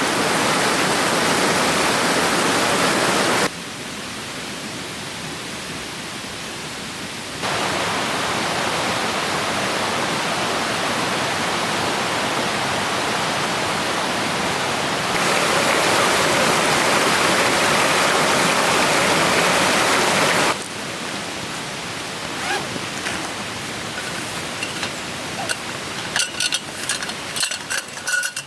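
Steady rushing of a clear stream's flowing water, jumping abruptly between louder and quieter as the shots change. In the last few seconds it is quieter, with a run of short sharp clicks.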